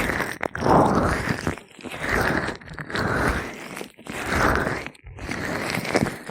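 Gloved hands massaging oiled ears close to the microphone: slow rubbing strokes that swell and fade about once a second, with a crunchy, crackly texture.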